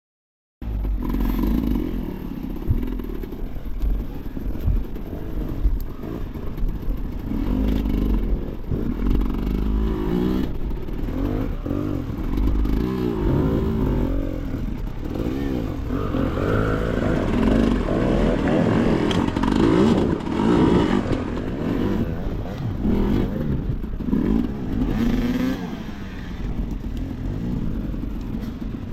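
Enduro motorcycle engine running hard off-road, revving up and down again and again as the throttle is worked.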